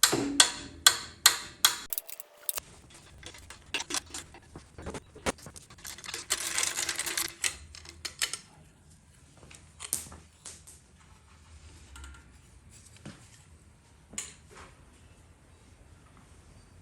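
Hand tools clicking and knocking against metal fittings on an LT1 V8 engine while the EGR tube is loosened, in a quick run of sharp clicks at first and scattered ones later. About six seconds in there is a hiss of spray lasting a second or two.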